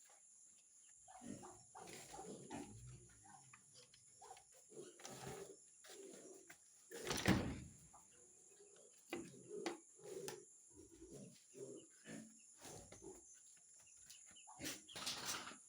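Pigs grunting in short, irregular grunts, with one louder, harsher sound about seven seconds in.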